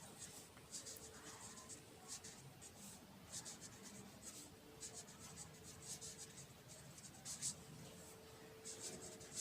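Faint handwriting: a series of short, irregular scratching strokes of a writing tool on a surface as a line of a worked solution is written out.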